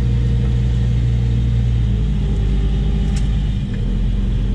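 An engine running steadily with a low hum. Its note shifts about two seconds in, as if load or throttle changed, and a single sharp click comes a little after three seconds.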